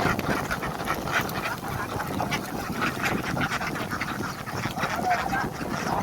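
A large flock of farmed ducks quacking continuously, many calls overlapping.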